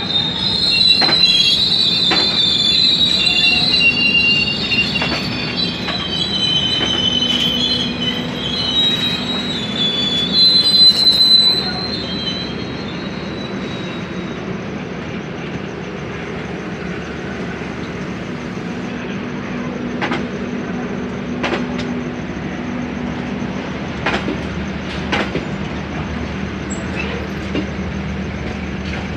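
Passenger-train carriages rolling past at close range. For the first twelve seconds or so the steel wheels squeal in high-pitched screeches over the rails, then the sound settles into a steady rumble with occasional sharp clacks as the wheels cross rail joints.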